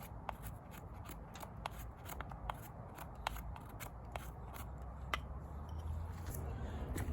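Wood fire crackling, with irregular sharp snaps. A low rumble swells near the end.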